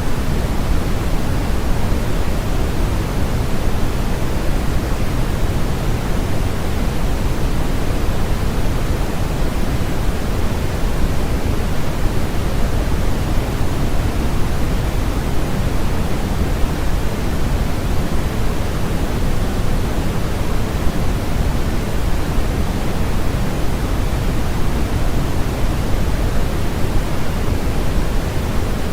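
Steady electronically generated noise for sleep masking, an even, unchanging rush that is heavier in the low end than in the hiss at the top, closer to pink noise than flat white noise.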